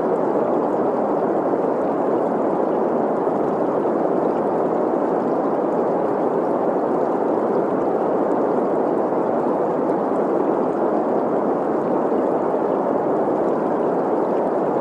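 Steady green noise, an even hiss centred in the middle range, mixed with the flowing water of a stream.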